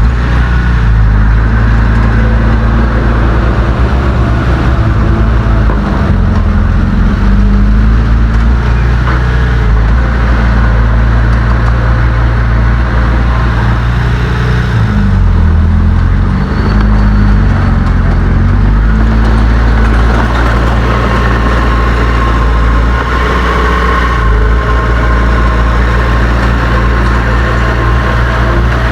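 Heavy diesel engine of earthmoving equipment running loud and steady, its engine speed shifting up and down around six seconds in and again for several seconds past the middle.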